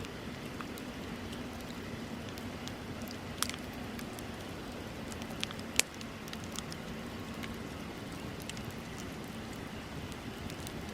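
Wood bonfire burning with a steady hiss and scattered crackles, a sharp pop about three and a half seconds in and a louder one near six seconds.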